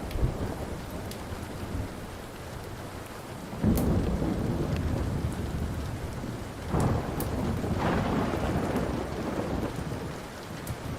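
Rolling thunder over steady rain, with deep rumbles breaking in at the start, about three and a half seconds in (the loudest), and again near seven seconds, then fading. A few sharp pops of a crackling wood fire sound through it.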